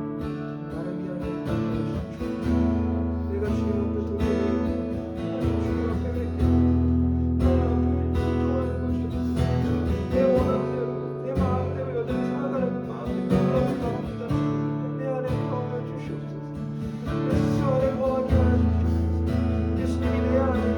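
Background worship music: an acoustic guitar strumming slow chords over a steady low bass.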